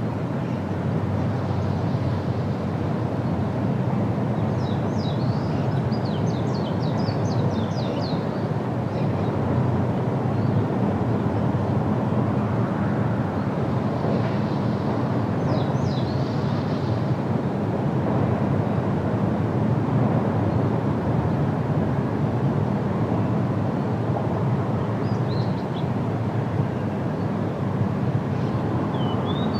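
Outdoor field recording: a steady low rumble of background noise, with small birds chirping in short quick runs a few times.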